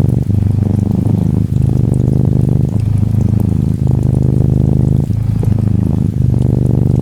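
Norwegian Forest Cat kitten purring steadily, the purr breaking briefly about every second as it switches between breathing in and out. Faint rain patter sits over it.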